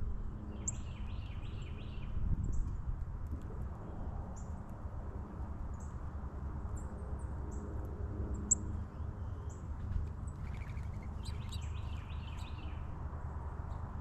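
Small songbirds calling around backyard feeders: repeated short, high chip notes throughout, with two spells of quick warbling chatter, one about a second in and one from about ten to thirteen seconds, over a steady low outdoor rumble.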